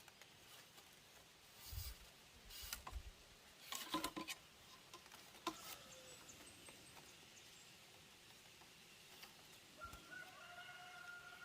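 Faint knocks and rustles in the first half. About ten seconds in comes a drawn-out call from poultry, a chicken or duck.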